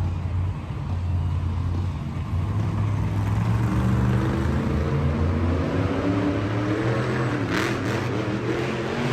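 Monster truck engine running with a deep steady note, then revved from about a third of the way in, its pitch climbing and wavering. There is a brief sharp noise near the end.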